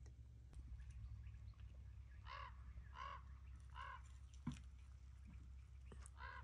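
A bird calling: three short calls about two-thirds of a second apart, then one more near the end. A single short knock falls between them.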